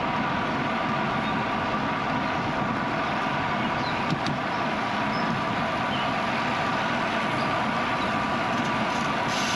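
Steady rush of riding a bicycle: wind on the action-camera microphone and tyres rolling on the road, with a constant hum and a single click about four seconds in.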